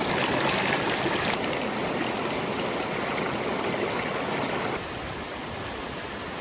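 Steady rushing of a flowing stream, which drops somewhat in level about three-quarters of the way through.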